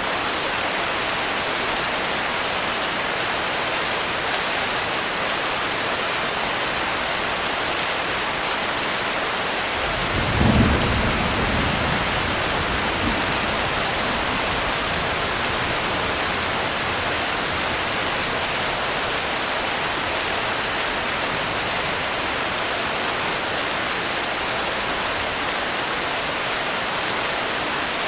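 Steady heavy rain hissing. About ten seconds in, a low roll of thunder swells up and dies away over two or three seconds.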